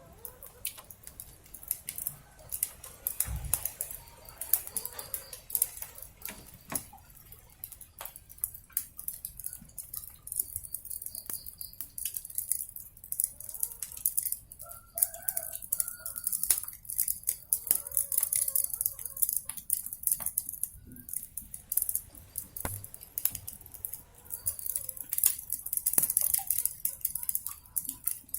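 Wood fire crackling and popping continuously over a steady hiss, with chickens clucking briefly around the middle.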